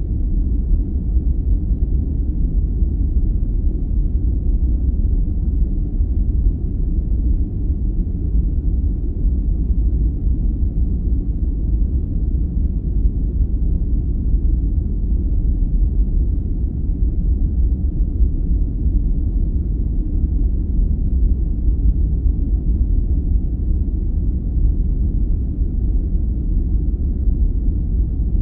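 Steady, deep rumbling noise used as a sleep sound: a dark form of 'white noise' with its energy low down and almost no hiss at the top.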